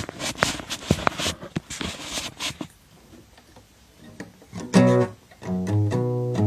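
Acoustic guitar strummed as a song intro. About two and a half seconds of short, scratchy strums are followed by a brief lull, then a few ringing chords near the end.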